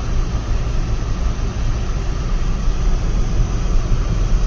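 Steady road noise inside a moving car's cabin: a low rumble with tyre hiss and no changes.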